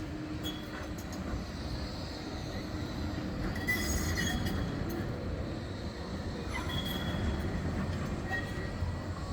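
Bombardier Flexity 2 tram running along the track with a low rumble, its wheels giving short high squeals on the rails about four seconds in and again near seven seconds.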